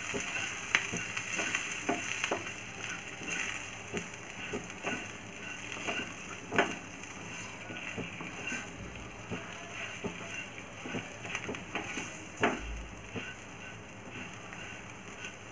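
Green chillies frying in oil in a pan while a wooden spatula stirs them through dry spices: a gentle, steady sizzle under irregular scrapes and knocks of the spatula, a few of them sharper.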